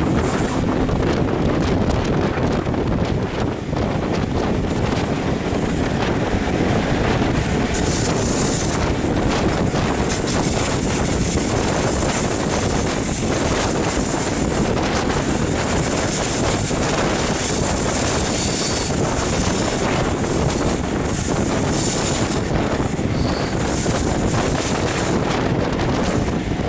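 Wind buffeting the microphone at an open window of a moving passenger train, over the steady rumble of the train running along the track. A higher hiss grows about eight seconds in.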